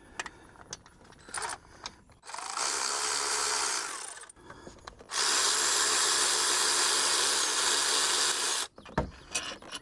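Handheld power tool, such as a drill or electric ratchet, running in two steady bursts: a shorter one about two seconds in, then a longer one of about three and a half seconds. Small clicks and knocks from tools on the engine come before and after.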